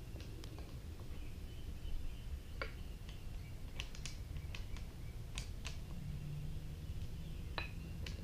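Scattered light clicks and taps, about a dozen at irregular intervals, from small starter parts and hand tools being handled and set down during reassembly of a Briggs and Stratton electric starter.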